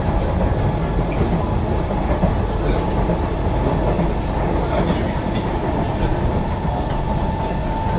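Interior running noise of a KSF C151B metro train cruising between stations: a steady rumble of wheels on rail with a steady whine held on one pitch and a few faint clicks.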